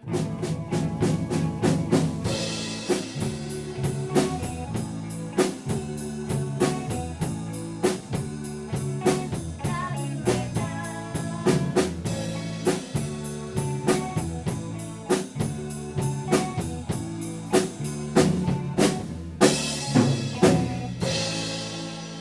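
Rock band playing live: drum kit with a steady beat over electric bass and guitar, in a passage without singing. There are two big crashes near the end.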